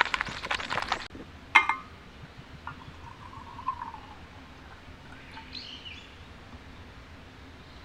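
Dense crackling and rustling that cuts off abruptly about a second in, then a single loud, sharp clink with a short ringing tone. Faint bird chirps follow.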